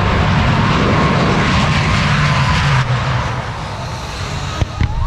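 The Homewrecker jet truck's twin General Electric J85 afterburning jet engines running: a loud, dense rumble with a faint steady whine. The sound drops off sharply about three seconds in, and there is a single sharp click near the end.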